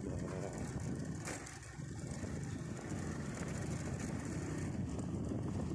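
Steady hum of road traffic, dipping slightly about a second and a half in.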